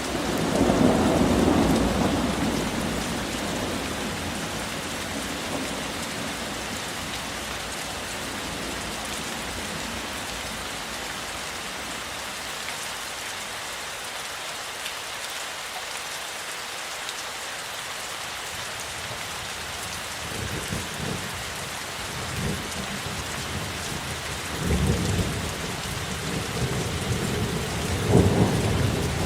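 Steady heavy rain falling, with a roll of thunder that swells right at the start and dies away over a few seconds. Further rumbles of thunder come in about two-thirds of the way through, building to the loudest peals near the end.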